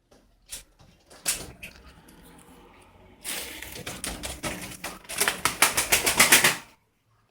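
Birds' wings flapping in quick beats, a rapid run of sharp wing claps that grows louder and faster and then stops suddenly.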